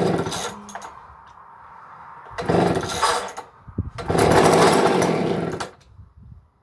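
McCulloch chainsaw being pull-started cold with the choke on: three pulls of the starter cord crank the engine in short bursts, and the last burst runs longer.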